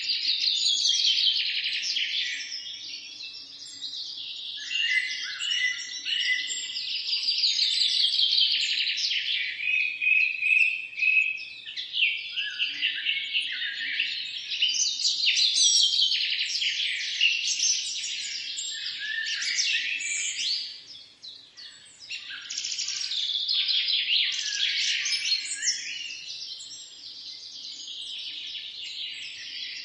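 Many songbirds chirping and singing at once in a dense, overlapping chorus of quick high trills and tweets, easing briefly about two-thirds of the way through.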